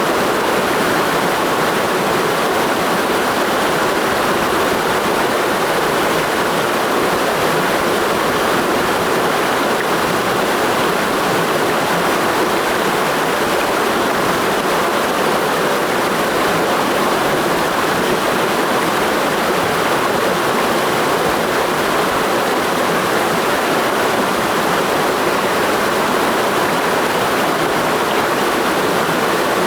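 Mountain stream rushing steadily over rocks in a gorge, a constant loud rush of water without pauses.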